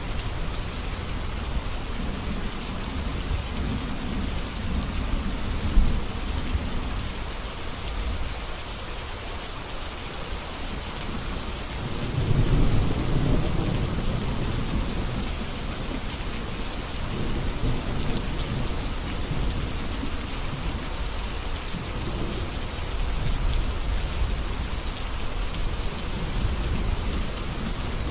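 Steady rain falling, with low rolling thunder rumbling underneath that swells strongest about twelve seconds in.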